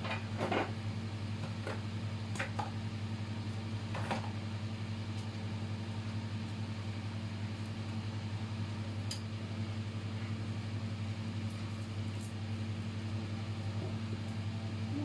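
Steady low mechanical hum of a running appliance motor or fan, with a few light clicks about half a second, two and a half and four seconds in.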